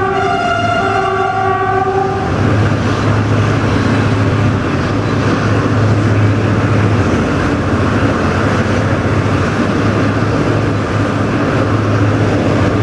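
A diesel locomotive's multi-tone horn sounds a chord for about the first two seconds. Then comes the steady running noise of the moving passenger train, a rushing sound with a low drone, heard from a carriage window.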